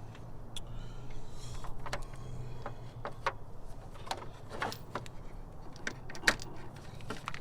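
Metal hand tools clinking and tapping while working on a car battery: a string of short sharp clicks and knocks in the second half, over a steady low hum.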